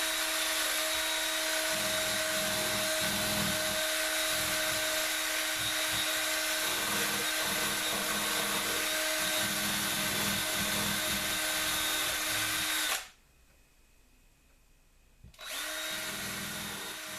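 Small power tool spinning a cleaning wheel against small screw and bolt heads to clean them up, its motor holding a steady pitch under an uneven scrubbing as the work is pressed on. It cuts off suddenly about 13 seconds in, then starts up again about two seconds later.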